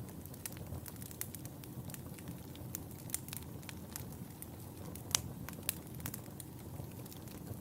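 Wood fire crackling, with a steady low rumble under frequent sharp pops and snaps; the loudest pop comes about five seconds in.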